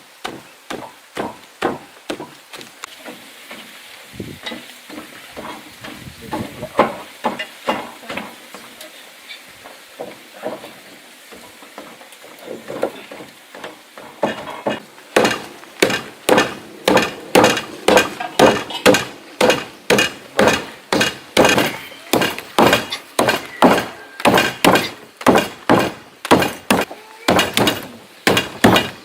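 Wooden thuds of cooked sticky rice being pounded: soft, irregular strokes at first, then from about halfway a steady run of louder strikes, roughly two to three a second.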